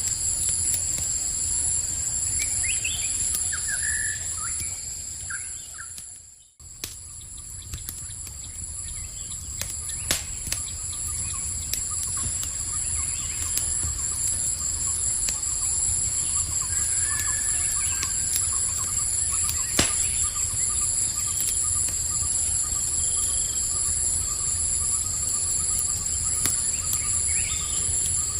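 Night ambience: a steady, high-pitched chorus of crickets or similar insects over a low rumble, with scattered sharp crackles and pops from a campfire and a few short bird chirps. The sound fades out and returns about six seconds in.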